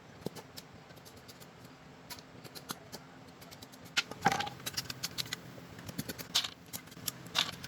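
Irregular light clicks, taps and scrapes of something being handled or worked by hand, with a few louder knocks about four seconds in, around six and a half seconds and near the end.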